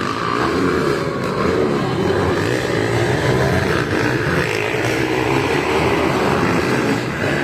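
Dirt bike engines revving during a supercross race, their pitch rising and falling.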